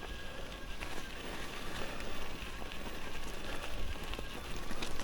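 Riding an electric mountain bike: a steady crackling rush of tyres rolling over a rough track, mixed with wind on the microphone.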